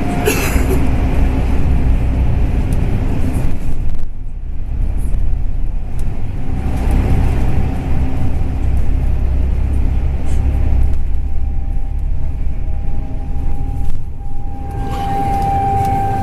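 Bus ATR212 under way, heard from inside: steady low engine and road rumble. A thin whine comes and goes over it, strongest near the end, and the rumble dips briefly about four seconds in.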